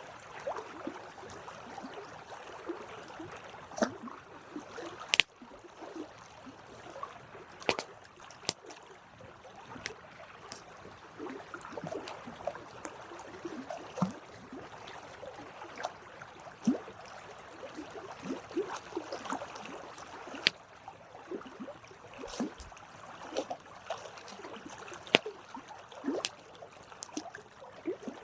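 Campfire burning: a soft, steady hiss with frequent irregular crackles and a few sharp pops from the wood.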